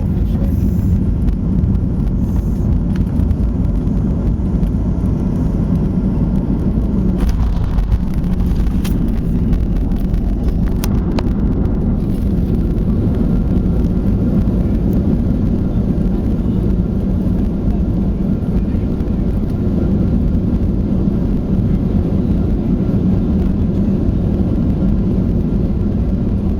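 Steady, loud low rumble of a Ryanair Boeing 737 jet airliner heard from inside the passenger cabin during the landing, with a few faint clicks about a third of the way in.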